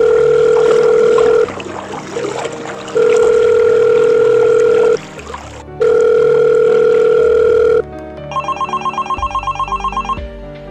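Telephone ringback tone: a steady calling tone sounds three times, about two seconds each, over the rush of river water. About eight seconds in it gives way to a telephone ringing in a fast trill, which breaks briefly and then rings on.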